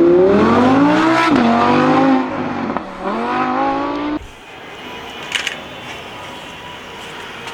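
Sports-car engine sound revving up and down twice, then cutting off about four seconds in, leaving a faint hiss.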